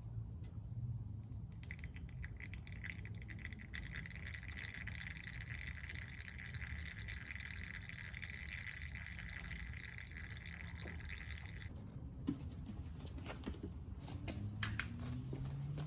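Motor oil pouring in a thin stream for about ten seconds, a steady trickling hiss, then stopping, followed by a few light clicks.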